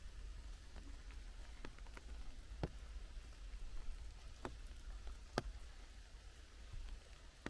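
Rain falling in a forest: a soft, even hiss of rain with scattered single drops landing close by at irregular moments, the sharpest about five seconds in, over a low steady rumble.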